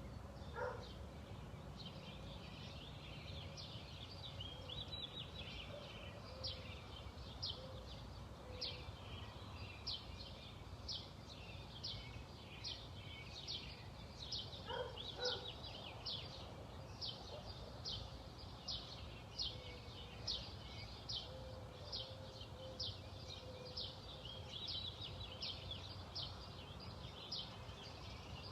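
Birdsong outdoors: one bird repeats a short high note a little more than once a second. Two lower calls stand out, one near the start and one about halfway through, over a faint low background rumble.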